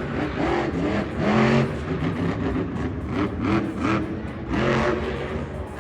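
Monster truck engine revving hard in a series of short blips, each rising and falling in pitch.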